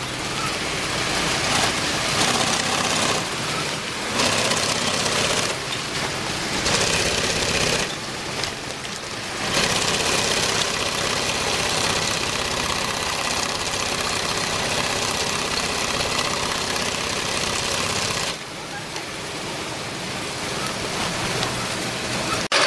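HIGHTEX 72600 heavy-duty walking-foot industrial sewing machine running in stretches, stopping and starting several times, with its level dropping near the end.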